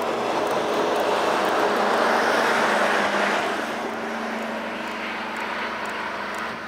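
A long KTM passenger train's coaches rolling past, a steady rush of wheel and rail noise, loudest two to three seconds in. It drops away after about four seconds as the last coach goes by and the train pulls off down the line.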